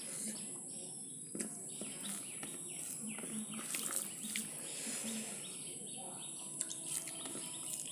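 Birds chirping in the background, a run of short, quick falling chirps, over a steady high-pitched hiss.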